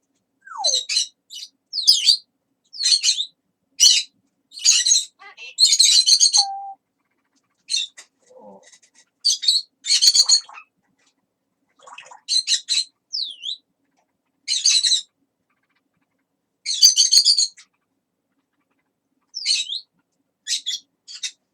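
Pet parrot giving a series of short, high-pitched squawks and chirps with brief pauses between them, and a couple of short falling whistles.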